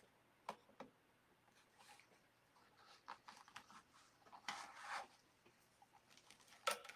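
Faint, scattered rustles and light clicks of deco mesh and burlap mesh pieces being handled, with a longer rustle about two-thirds through and a sharper tick near the end.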